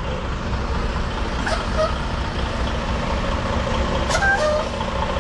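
Semi truck's diesel engine running with a steady low rumble as the rig creeps along at low speed, with a couple of faint short high chirps partway through.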